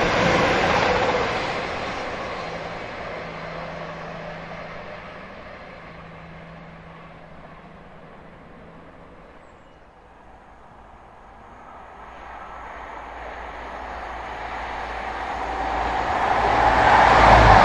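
A diesel passenger train running away into the distance, its engine and wheel noise fading over the first half. Then an HST, led by a class 43 power car, comes closer, its diesel engine and wheels building to a loud rumble as it passes close by at the end.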